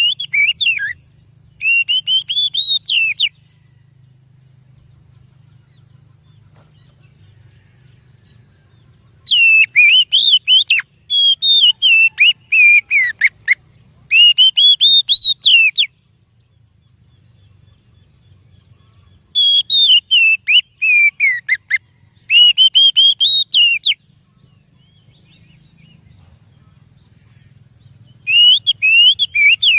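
Oriental magpie-robin singing: loud groups of rapid, varied whistled notes sliding up and down in pitch, each group lasting a few seconds, with pauses of several seconds between them, over a faint low hum.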